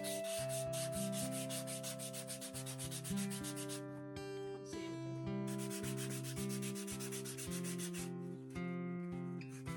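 Sandpaper rubbed in rapid back-and-forth strokes over a dried acrylic painting, sanding back paint that has built up too thickly. The strokes come in two runs with a short pause about four seconds in, over quiet background music.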